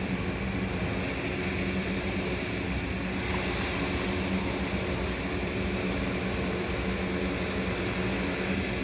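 Steady engine drone: a constant low hum over an even hiss, with no knocks or crashes.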